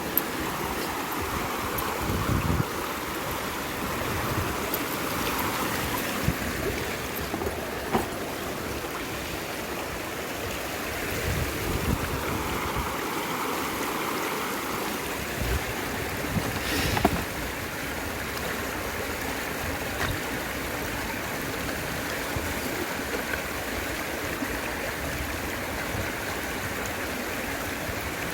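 River water flowing steadily, with a few brief knocks or splashes scattered through it.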